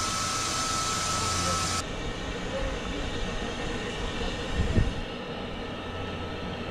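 Metre-gauge train running on the rails, a steady rumble of noise. The sound changes abruptly about two seconds in, and a single low thud comes about two-thirds of the way through.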